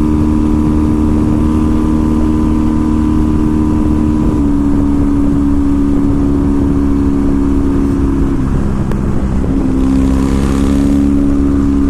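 2014 Triumph Thruxton's air-cooled parallel-twin engine running at road speed through slash-cut TT exhausts, picked up by a microphone fitted with a fur windscreen. The engine note steps up in pitch about four seconds in, dips briefly past eight seconds, then rises again.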